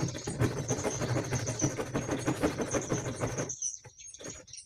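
A saw cutting through a sheet of plywood, a rasping sound that surges two or three times a second and stops about three and a half seconds in.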